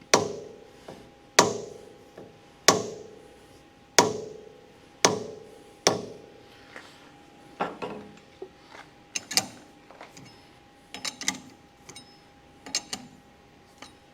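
A hammer tapping a steel workpiece held in lathe chuck jaws, seating it flat against the jaw faces: six hard, ringing blows about a second and a bit apart, then lighter, quicker taps.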